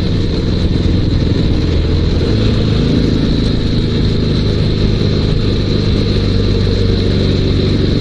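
Dnepr 16 sidecar motorcycle's flat-twin boxer engine running steadily while under way, its note stepping up a little about two seconds in.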